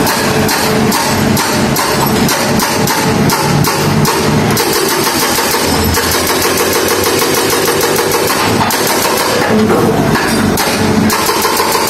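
Heavy road-works machinery breaking up a road: a diesel engine running under load with rapid, evenly repeated pounding strokes for the first few seconds, then a steadier engine sound.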